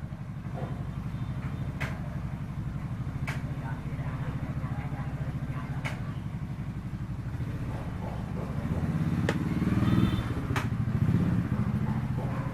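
An engine running steadily, growing louder and more uneven about two-thirds of the way through, with a few sharp clicks over it.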